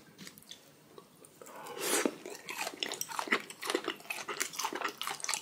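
Close-miked chewing of food, with irregular crisp crunching clicks starting about a second and a half in.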